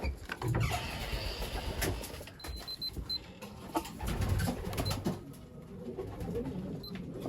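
Racing pigeons cooing in a loft, a low continuous murmur with scattered clicks and shuffles.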